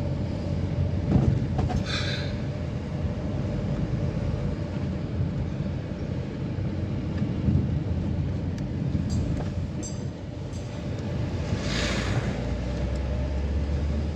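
A vehicle driving: steady engine and road rumble, with a few brief rattles and a short louder noise about twelve seconds in.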